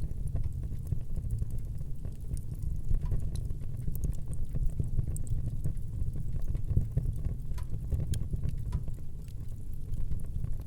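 Fire burning in a fireplace: scattered small crackles and pops over a steady low rumble of the flames.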